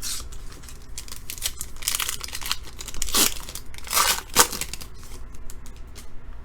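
A trading-card pack wrapper being torn open and crinkled in the hands: several short rips and rustles, the loudest about three and four seconds in.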